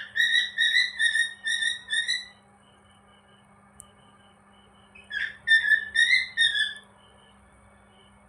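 Cockatiel whistling: two short phrases of clear, pitched whistled notes, the first at the start and the second about five seconds in, with a pause between.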